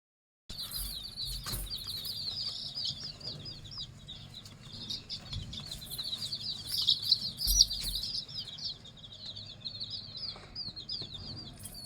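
A group of chicks peeping continuously, many short high calls overlapping in a dense chorus.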